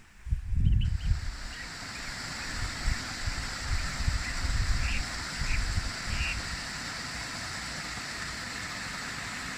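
Steady rushing of a waterfall, starting about a second in, with low rumbles of wind on the microphone during the first six seconds and a few short high chirps.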